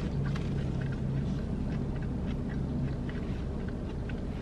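A person chewing a mouthful of fried cauliflower, with faint scattered mouth clicks, over a steady low rumble inside a car.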